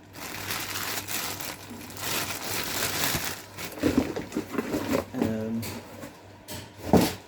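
Packaging crinkling and rustling as new engine parts are rummaged through and unpacked by hand, with a few brief mumbles of voice in the second half.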